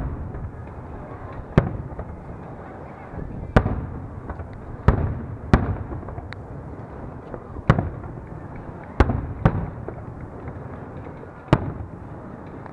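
Aerial firework shells bursting overhead in a public display: about nine sharp booms at irregular intervals, each dying away briefly, over a steady background noise.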